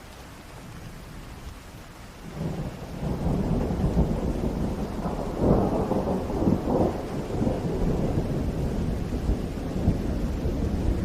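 Steady rain, joined about two seconds in by a long roll of thunder that builds into a loud low rumble and keeps rolling.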